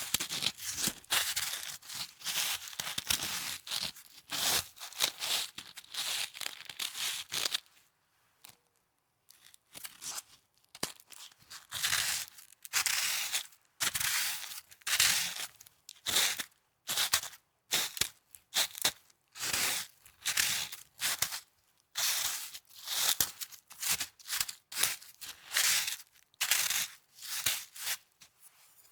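Snow being crunched and squeezed in short, repeated bursts, with a pause of about two seconds around eight seconds in.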